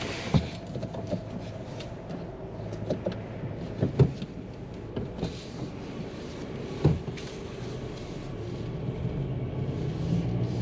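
Inside the cabin of a 2022 Ford Maverick XLT FX4: a low steady hum, with three sharp knocks about half a second, four and seven seconds in and some lighter clicks. The hum grows a little louder near the end.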